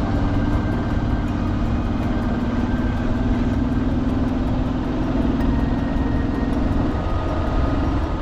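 A motor vehicle's engine running steadily over a low road and wind rumble, its note sagging slightly and then rising again near the end.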